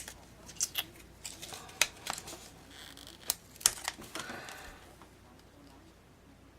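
Paper ephemera and a plastic pocket-letter sleeve being handled, giving a string of sharp crinkles and clicks that die away after about five seconds.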